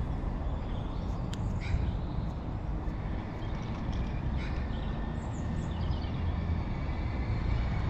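Train running by with a steady low rumble, and birds chirping faintly now and then.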